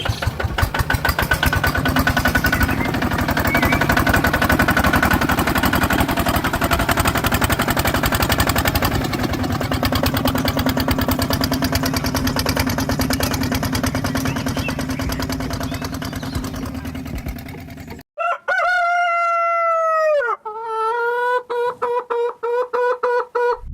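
A small engine runs steadily with a fast, even beat. It cuts off abruptly about three quarters of the way through, and a rooster crows in one long call whose pitch drops partway through.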